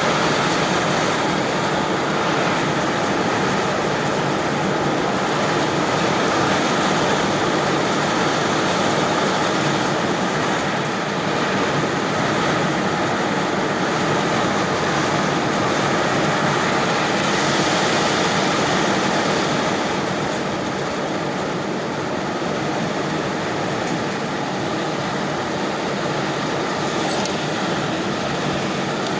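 Strong storm wind blowing as a steady roar, easing slightly about twenty seconds in.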